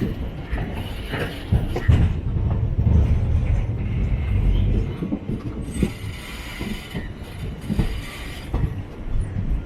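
Express train coach running on the track: a heavy low rumble, strongest in the first half, with irregular clanks and rattles from the wheels and coach.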